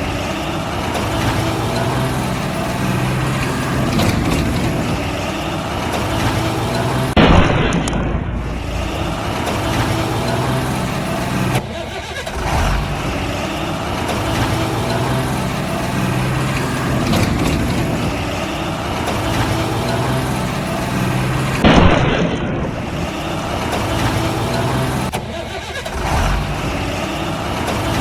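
Truck engine sound running steadily, with a short loud surge about seven seconds in and again about twenty-two seconds in; the whole pattern repeats like a looped sound effect.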